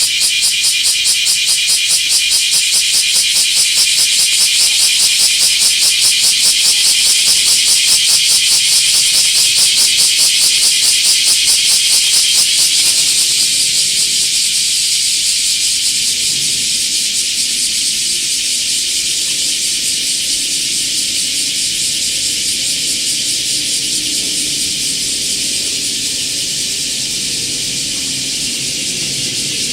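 Cicada singing close to the microphone: a loud, high, rasping buzz that pulses rapidly for about the first half, then settles into a steadier, slightly quieter drone.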